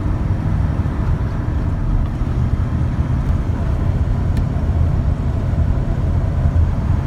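Steady engine and road noise inside a pickup truck's cab while cruising at freeway speed.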